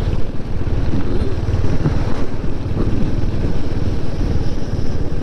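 Motorcycle engine running under way, with heavy wind buffeting on the microphone: a steady low rumble.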